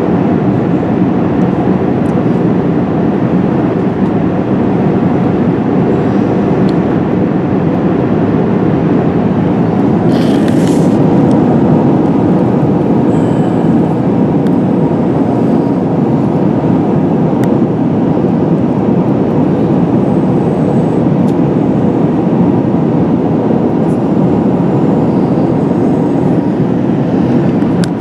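Steady cabin noise of an Airbus A380 in cruise: a constant rush of airflow and engine noise heard from inside the cabin. A brief rustle about ten seconds in.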